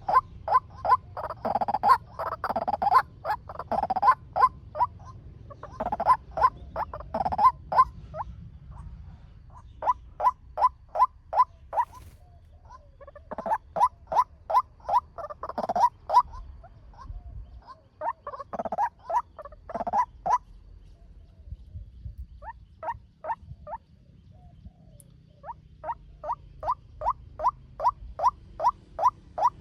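Male white-breasted waterhen calling: a fast, rhythmic series of short notes at about four a second, in bouts broken by brief pauses.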